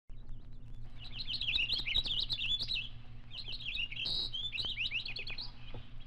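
Small songbirds chirping and twittering in quick, busy phrases, with a short break about halfway, over a steady low hum.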